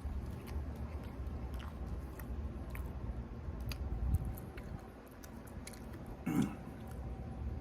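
A man chewing a mouthful of cheesesteak, with small wet mouth clicks, over a steady low hum. About six seconds in he gives a short murmur with his mouth full.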